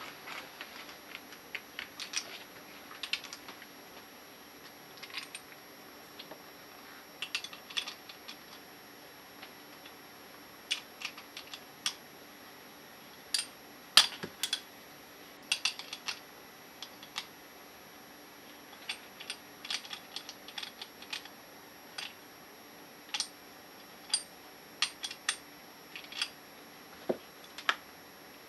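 Small metal parts of a TUSA scuba regulator first stage and hand tools clicking and clinking against each other and the bench during disassembly: irregular sharp ticks, a few a second at times, with one louder knock about halfway.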